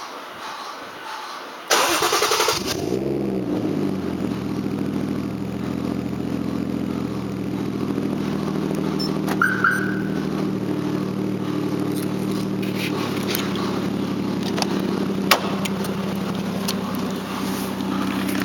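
Toyota Cresta's engine cranked by its remote starter, catching after about a second, its revs falling from a flare into a steady idle. A brief high beep and a couple of clicks sound over the idle.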